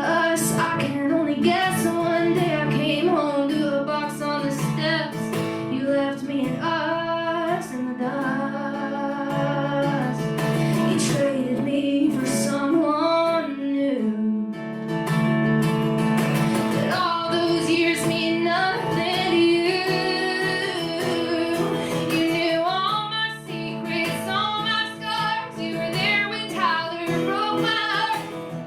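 A woman singing a slow country-style song live, accompanied by acoustic guitar.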